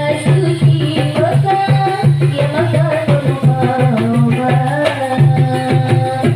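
Marawis ensemble playing: frame and hand drums beat a steady, busy rhythm under a sung melody.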